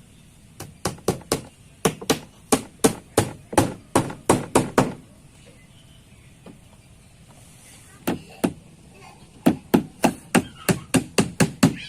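A rapid run of sharp, hard blows, about three to four a second, that stops for about three seconds, gives two more blows, then starts again in another quick run.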